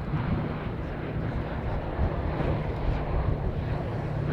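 Steady drone of the B-17G Flying Fortress's four Wright Cyclone radial engines as the bomber flies past.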